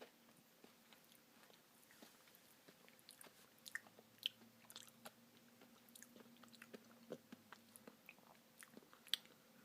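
Faint chewing and crunching of a mouthful of ice cream with crunchy toffee pieces: soft, irregular little clicks, a little busier in the second half.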